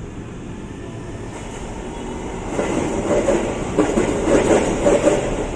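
Electric commuter train (KRL) running on the rails. Its rumble and rail noise build steadily, then grow clearly louder about two and a half seconds in, with uneven peaks.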